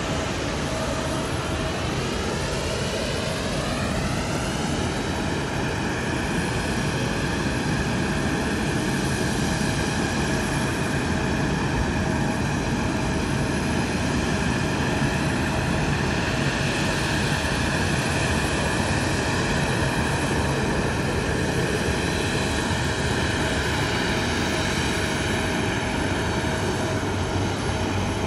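Airliner jet engines running steadily and loudly, with a sweeping, phasing hiss over the first few seconds as the aircraft moves past, and a steady whine throughout.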